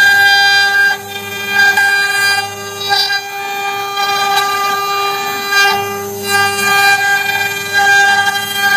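CNC wood router running: the spindle gives a steady high whine while a lower hum starts and stops every second or so as the machine carves.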